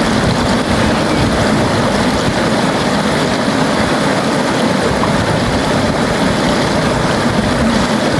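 River water flowing steadily, a continuous rush of water with no breaks.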